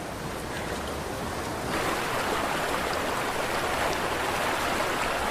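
Rushing river water, a steady noise that grows louder and steps up about a third of the way in.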